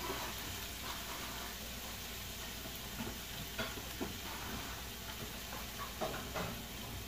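Garlic and shallots sizzling steadily in hot oil in a frying pan, with a few small crackles, as they are sautéed until fragrant.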